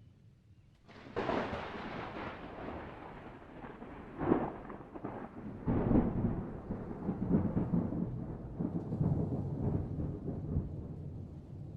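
Thunder: a sudden crack about a second in, then a long rolling rumble with two more loud peals.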